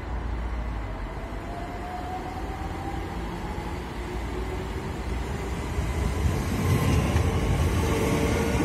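London Overground Class 378 electric train pulling into the platform, wheels rumbling on the rails with a whine in shifting tones from its motors, growing louder as it draws alongside about six seconds in.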